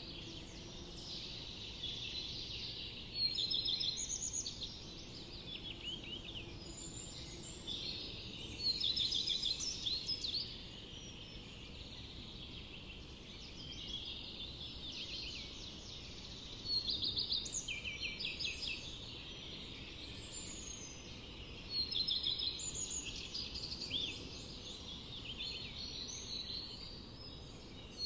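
Forest songbirds singing: a steady chorus of chirps, with louder trilled song phrases of rapid repeated notes coming every few seconds.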